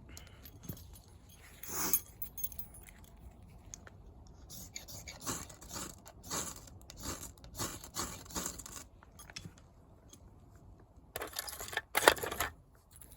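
A series of short scraping, rustling strokes, about one every two-thirds of a second, with a louder burst near the end.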